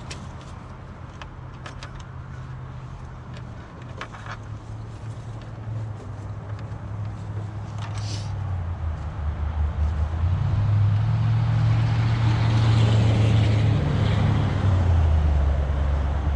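A motor vehicle's engine running, growing louder through the second half and dropping in pitch in a couple of steps, with a few light clicks and rustles of handling.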